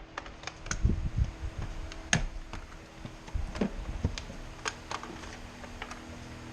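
Irregular light clicks and taps, about a dozen spread unevenly, with a few duller low knocks, over a faint steady hum: hands working with tools or parts.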